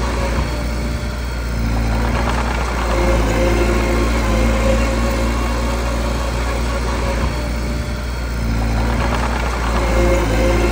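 Small bulldozer's diesel engine running steadily, getting louder about two to three seconds in, easing back near eight seconds and picking up again near the end.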